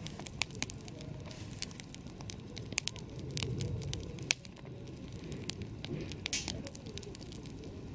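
Campfire crackling: irregular sharp pops and snaps of burning wood over a low steady rumble, with the loudest pop a little past the middle.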